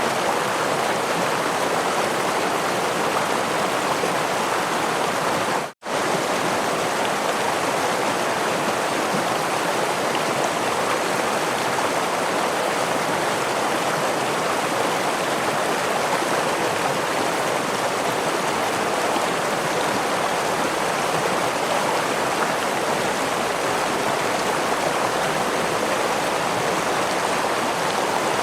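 Stream water flowing over a waterfall, a steady rushing that cuts out for a split second about six seconds in.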